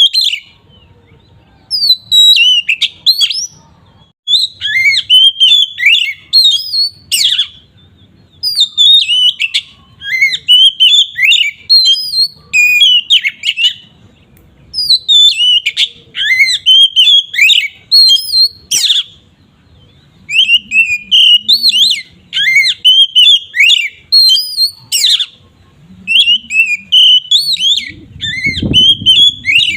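Oriental magpie-robin (kacer) singing in full, loud voice: long phrases of rapid, varied whistled and chattering notes, broken by short pauses of about a second. This is the open 'ngeplong' song that keepers play to rouse other magpie-robins.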